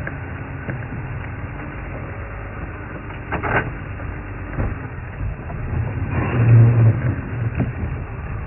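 An elephant feeding on ticklebush, the branches cracking and snapping in a few sharp bursts, the loudest about six and a half seconds in. Under it runs the steady low rumble of the safari vehicle's engine.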